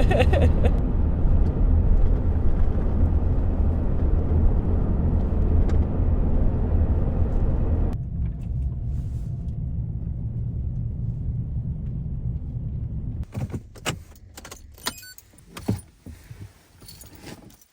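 Cabin noise of a 2015 Kia Sedona minivan driving, a steady low road and engine rumble that drops sharply about eight seconds in and stops about five seconds later. Then a run of scattered clicks, knocks and rattles.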